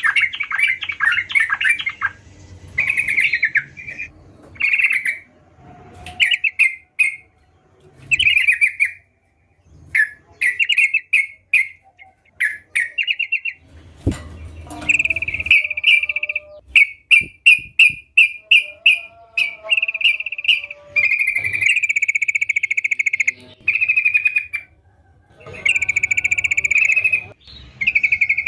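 Yellow-vented bulbul (trucukan) singing: loud, bubbly phrases of rapid chattering notes, repeated over and over with short pauses between them.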